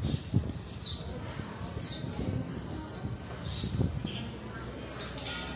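Birds chirping: short, falling high-pitched calls repeated about once a second, over the murmur of people's voices.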